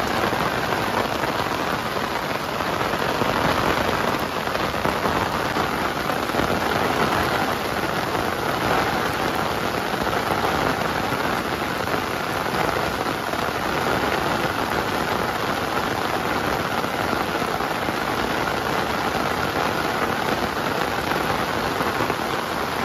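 Heavy rain pouring down, a steady, dense hiss with no break.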